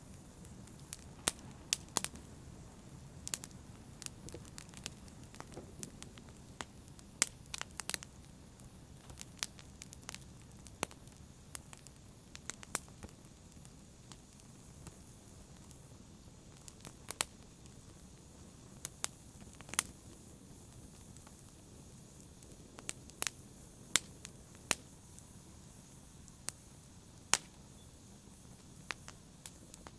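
Wood fire crackling, with irregular sharp pops, a few much louder than the rest, over a steady low rumble of the flames.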